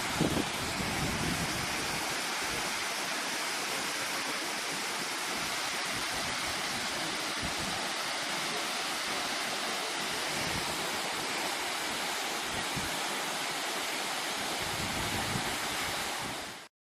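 Large waterfall: a steady, dense rush of falling water, with a few brief low rumbles. It cuts off suddenly near the end.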